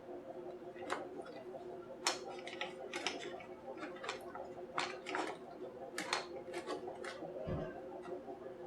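Light, irregular clicks and taps of small tools and plastic parts being handled during electronics repair work, about one a second, over a steady low hum.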